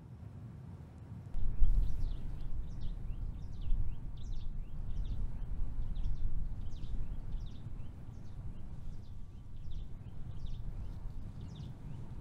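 Small birds chirping: a quick string of short, high calls, one or two a second. Under them is a low rumble that comes in suddenly about a second and a half in and is the loudest sound.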